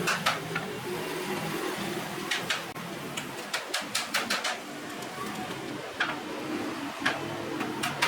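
Irregular light taps and clicks of hand work on wood for a bird cage, some in quick clusters, over a faint background hum.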